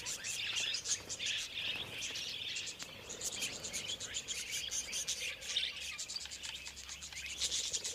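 Wild budgerigars chattering, a dense, continuous run of quick high chirps and warbles.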